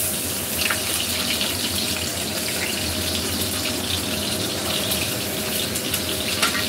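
Oil sizzling and crackling steadily around eggplant slices topped with minced fish as they shallow-fry in a non-stick pan.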